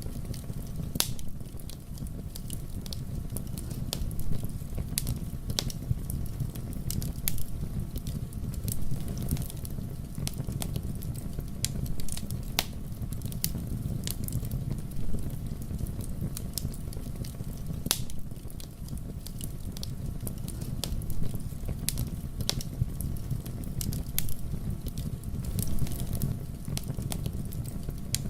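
Fire burning in a fireplace, crackling: irregular sharp pops and snaps, several a second, over a steady low rumble of the flames.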